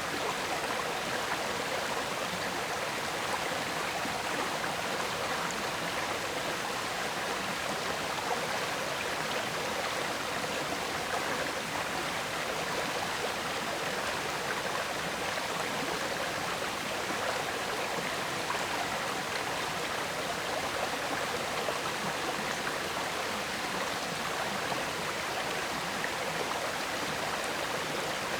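River water flowing and gurgling over rocks, a steady even rush that does not change.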